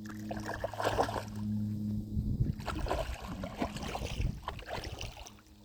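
A dog splashing and sloshing through shallow water as it goes after a crab, in many short irregular splashes. Under it a steady low hum runs for the first couple of seconds and then stops.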